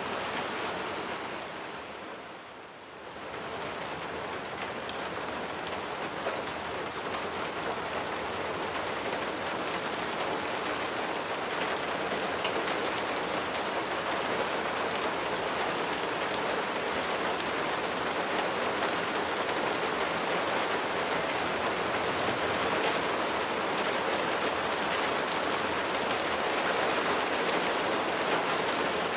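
Steady rain falling, with many single drops ticking on a surface. It dips briefly in loudness about two to three seconds in, then runs on evenly.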